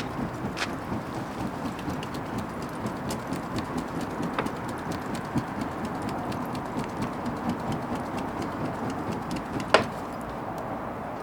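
Wood bonfire crackling steadily with irregular snaps and pops, one sharper pop near the end.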